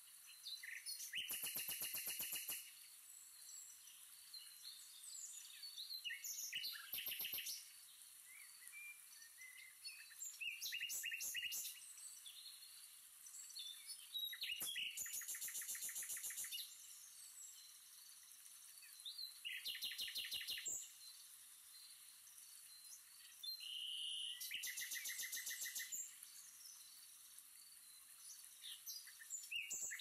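Birds calling in six bouts of rapid, evenly pulsed chattering trills, each a second or two long, about every four to five seconds, over a faint steady high-pitched hiss.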